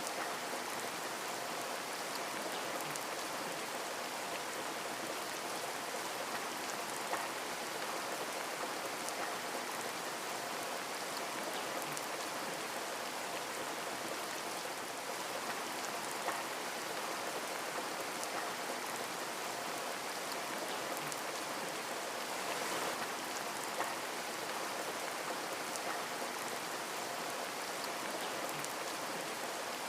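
Heavy rain falling steadily in a forest: an even, dense hiss with scattered sharper drop ticks.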